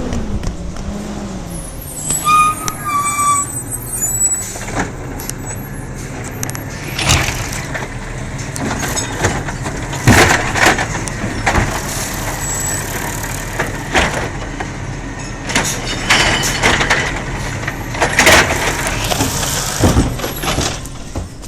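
Garbage truck running steadily, with a short air-brake hiss and a string of loud clanks and bangs from about seven seconds in.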